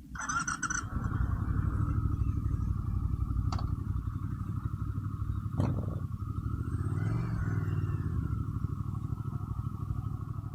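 A motorcycle engine running steadily with an even low rumble that swells briefly around the middle. There is a short burst of higher sound right at the start and a couple of sharp clicks along the way.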